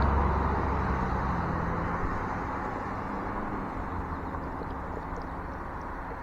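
Road traffic: a vehicle passing close by and fading away over the first couple of seconds, leaving a steady low traffic hum.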